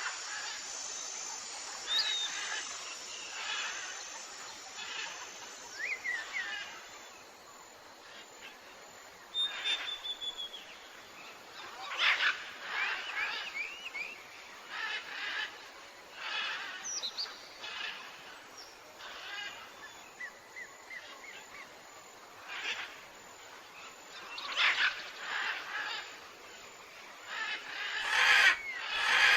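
Tropical forest birds calling: a chorus of short chirps, whistles and quick trills from several birds, coming every second or two over a faint steady hiss, loudest near the end.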